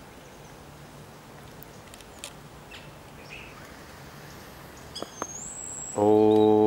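Garden ambience with birds chirping faintly and a high whistled bird call about five seconds in. About six seconds in, a loud low droning musical note begins suddenly and holds steady.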